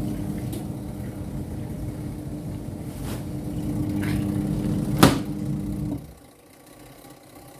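Twin-tub washing machine's spin-dryer motor running with a steady hum, with a sharp click about five seconds in; the motor then cuts off about six seconds in.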